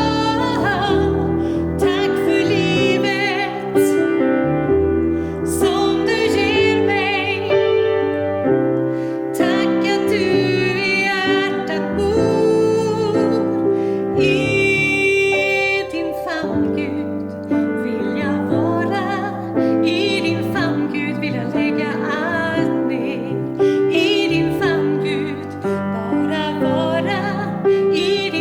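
A woman singing a slow song with vibrato, accompanied on piano.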